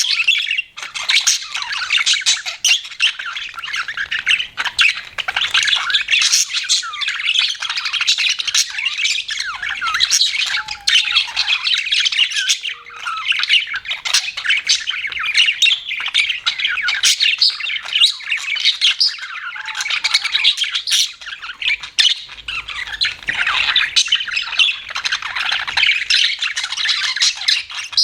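Budgerigars chattering and chirping continuously, a dense mix of rapid warbles and squawky calls from several birds.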